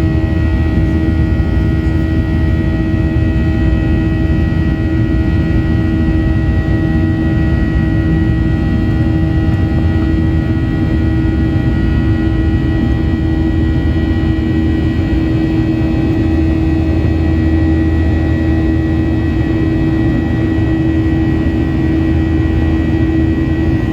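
Steady jet cabin noise inside a Boeing 737: a constant engine drone and airflow rush with a low rumble, a steady hum and a thin high whine.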